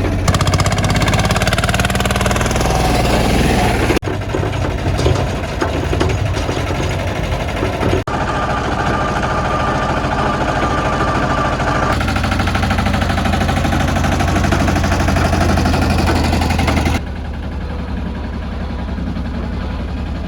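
Small tractor engine running with a knocking engine note. The sound changes abruptly several times as the scene cuts.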